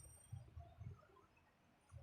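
Soft, close-miked chewing of a mouthful of rice and curry. Low, muffled mouth sounds come in a few pulses during the first second, then stop briefly near the end.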